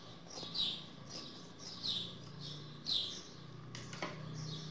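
A small bird chirping repeatedly in the background, short falling chirps about once a second, over a faint low hum. A single sharp click about four seconds in.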